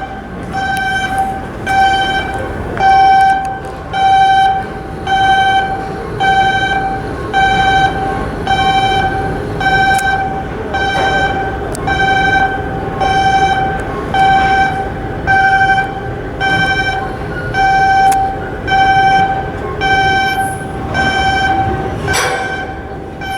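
A warning alarm beeping over and over, about one beep every 0.8 s, each beep a single steady pitched tone, over the steady noise of shipyard work. A brief hiss rises just before the end.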